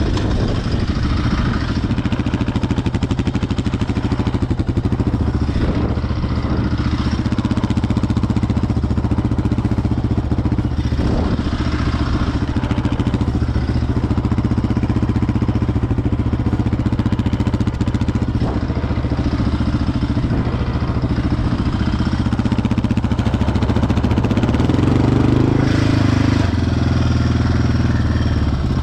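ATV engine running steadily, with the revs climbing for a couple of seconds near the end.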